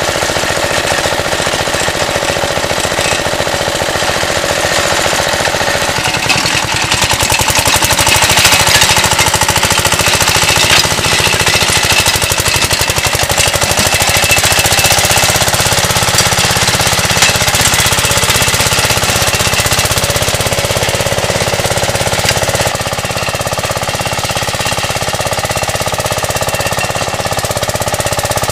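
Two-wheel tractor's engine running steadily with a rapid knocking beat, easing slightly in level near the end.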